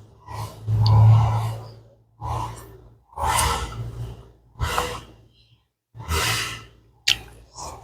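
A woman breathing hard and sighing through her mouth, a breathy gust about once a second, as she eats chili-hot pounded salad.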